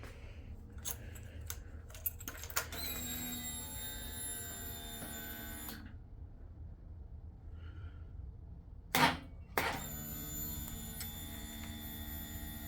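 A 2005 Suzuki SV650 being started on a cold lithium battery. A steady electric whine runs for about three seconds, then stops. Two sharp clicks come about nine seconds in, then another steady whine that does not catch into engine running: a failed start, the freezer-cold battery unable to start the 645cc V-twin.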